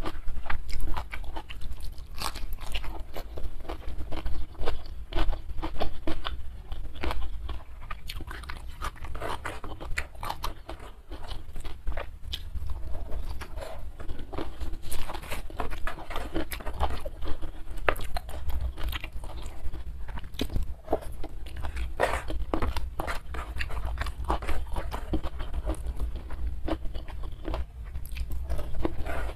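Close-miked chewing: irregular crunching and wet mouth clicks of a person eating a mouthful of rice with raw leunca berries and green chili.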